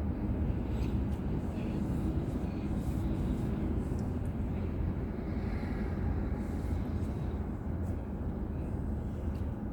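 Steady low rumble of a car driving: road and engine noise picked up inside the car by a dashcam, with a few faint ticks.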